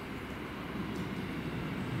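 Keio Line electric commuter train approaching a station platform, its low rumble building steadily as it draws near.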